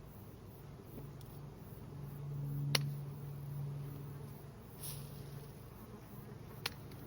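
Swarming honeybees buzzing, a low hum that swells and fades as bees fly close by. Two sharp snips about four seconds apart come from hand pruners cutting vitex limbs.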